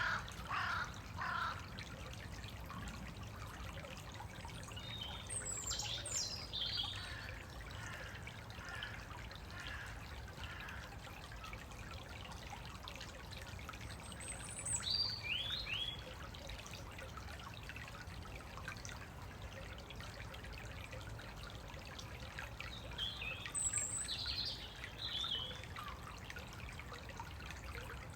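A woodland stream trickling steadily, with songbirds singing short high phrases every several seconds.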